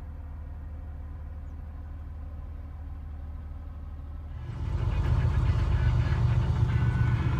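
Beet-hauling truck's engine running steadily at a low hum, heard from inside the cab. About four and a half seconds in, louder background music comes in over it.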